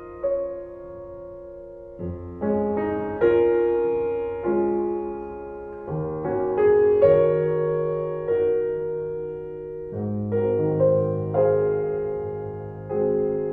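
Slow background piano music, chords struck every second or two and left to ring and fade.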